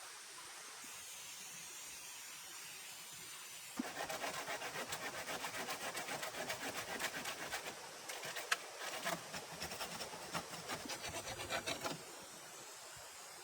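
Rapid back-and-forth scraping strokes, about four or five a second, starting about four seconds in and stopping about eight seconds later, with one sharper knock partway through.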